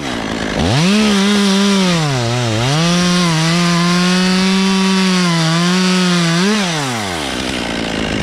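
Chainsaw revving up and cutting wood. Its engine speed sags briefly about two seconds in as the chain loads up, holds high and steady, then drops back to idle near the end as the cut finishes.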